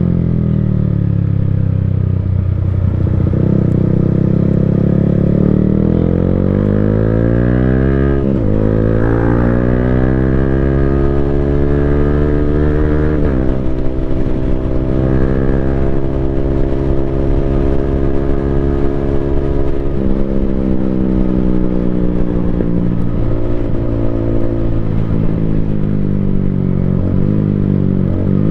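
Yamaha Sniper 155R's single-cylinder engine running through an Akrapovic full exhaust system while riding. Its revs climb and then drop sharply on upshifts about 8 and 13 seconds in, followed by steadier running with gradual falls and further gear changes in the second half.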